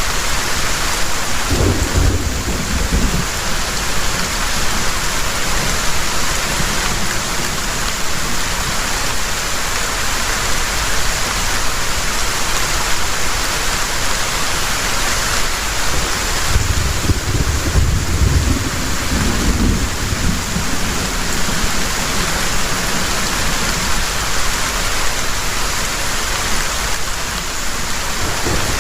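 Heavy rain pouring steadily, with low thunder rumbling twice: briefly about two seconds in, and longer from about seventeen to twenty seconds in.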